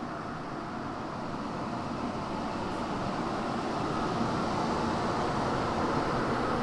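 Diesel pickup truck running on a chassis dyno: a steady rushing engine and roller noise that slowly grows louder as the run builds.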